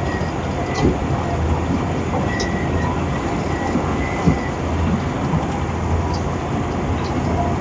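Heavy diesel road-works machinery, such as an excavator loading a dump truck, running with a steady low rumble, scattered knocks and clanks, and a faint on-and-off high whine.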